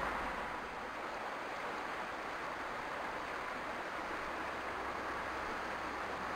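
Steady, even rushing noise with no distinct bird calls, knocks or voices.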